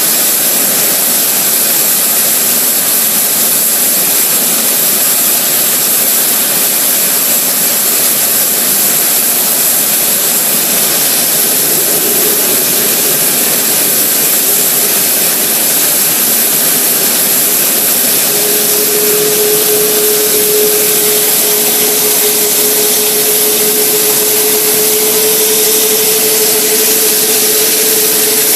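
Airbus A380 jet engine running loud and steady during an engine test, with a constant high whine over the noise. A lower steady tone comes in past the middle.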